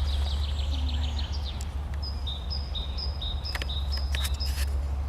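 A small songbird singing in woodland: a quick trill, then a two-note phrase, high then low, repeated about twice a second. Under it runs a steady low rumble, and a few sharp clicks come near the end.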